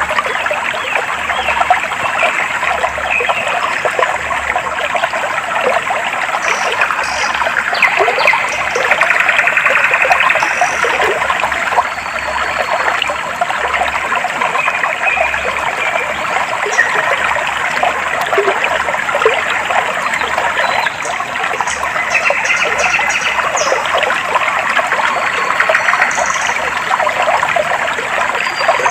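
Stream of clear water trickling and babbling steadily, with a few brief, faint high bird chirps now and then.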